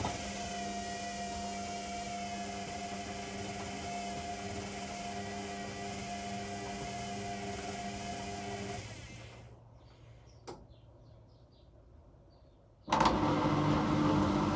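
Washing machine motor running with a steady hum, then winding down about nine seconds in. A single click follows, and near the end the machine starts up again abruptly and louder.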